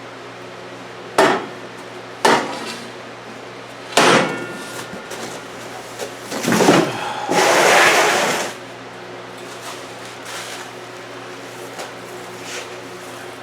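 Steel motorcycle scissor lift jack being handled: three sharp metal knocks about a second apart, the third ringing briefly, then a longer scraping noise lasting about two seconds.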